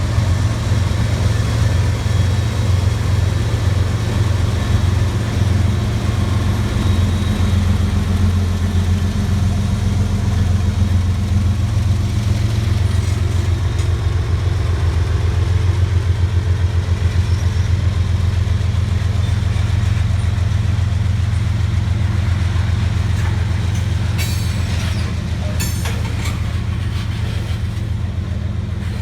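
Freight train of tank cars rolling past, a steady heavy low rumble of wheels on rail, with a few sharp high clanks or squeals near the end.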